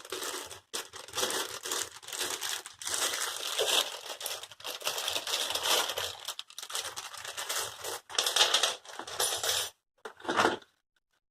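Crinkling and rustling of packaging being handled, in uneven spells with short pauses, stopping shortly before the end.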